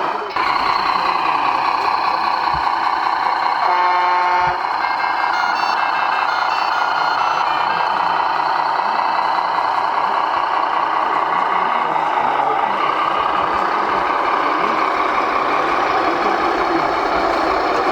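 Steady mechanical din from scale RC trucks and construction models, with a reversing-alarm beep sounding about four seconds in.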